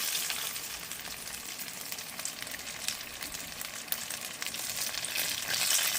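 Turon (banana and jackfruit spring rolls) frying in hot oil in a pan: a steady sizzle with frequent small crackles and pops.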